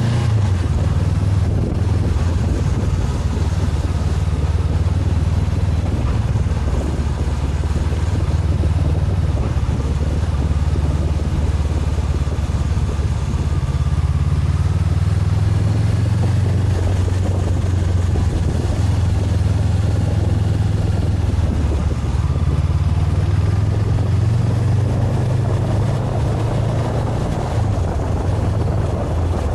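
Honda CB500X's parallel-twin engine running at a steady cruise while riding, its low note shifting slightly now and then, with wind and road noise over it.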